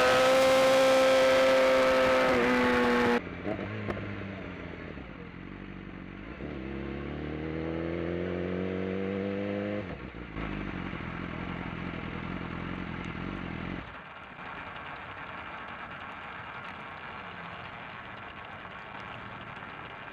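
Racing motorcycle engine at high revs for about three seconds, cutting off abruptly. Then, quieter, a motorcycle engine revs up in a rising pitch, holds steady for a few seconds, and fades to a faint hum.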